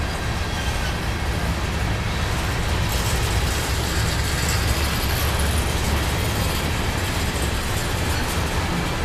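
Freight train rolling past: the low rumble of its six-axle diesel locomotives pulling away, with the steady rolling noise of covered hopper cars on the rails.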